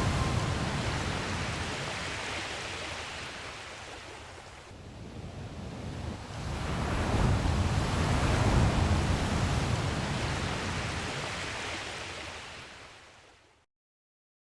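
Ocean surf: a steady hiss of waves that ebbs, swells once to a peak, then fades out to silence near the end.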